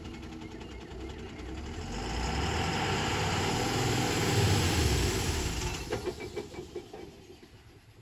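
Heavy diesel engine running, growing louder about two seconds in, loudest around the middle, then dying away with a quick pulsing near the end.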